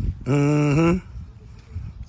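A man's voice holding one long drawn-out note for under a second, rising slightly at the end, with quieter background noise after it.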